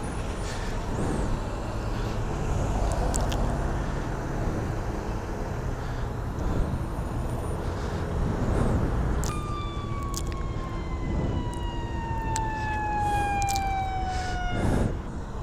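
Steady traffic noise. About nine seconds in, an emergency-vehicle siren starts with one clear tone that slowly falls in pitch for about five seconds, then stops.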